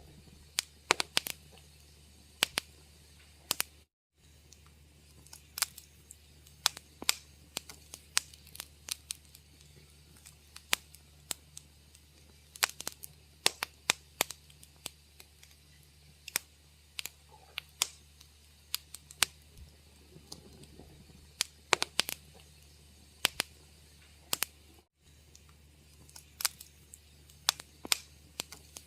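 Wood fire crackling in a fireplace: irregular sharp pops and snaps, sometimes several in quick succession, over a low steady hum. The sound cuts out briefly twice, about four seconds in and again about three-quarters of the way through.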